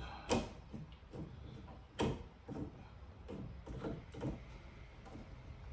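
Hand rivet tool being squeezed to set pop rivets, a run of clicks and clacks with two sharp ones, about a third of a second in and at two seconds.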